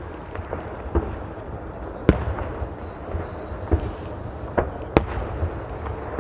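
Aerial fireworks shells bursting: a run of sharp bangs, roughly one a second, over a continuous rumble of further booms and crackle.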